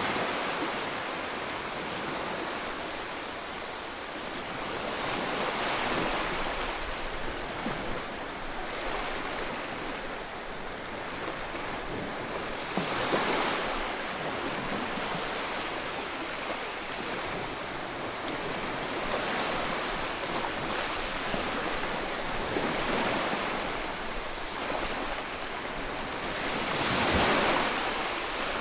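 Sea waves breaking on the shore, a steady surf hiss that swells as each wave breaks, about every six to seven seconds, with the loudest break near the end.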